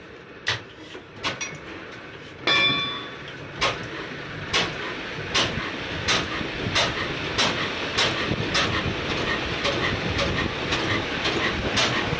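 Old Ruston Hornsby diesel engine starting: a few scattered knocks, a loud burst about two and a half seconds in, then firing beats that quicken steadily from about one a second to several a second as the engine picks up speed.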